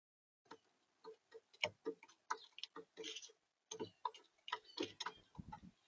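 Irregular clicks and taps close to the feeder camera's microphone, the sound of a visitor pecking and shuffling seed on a smart bird feeder, with a short rustle about three seconds in. The sound starts abruptly about half a second in, as the camera's clip begins.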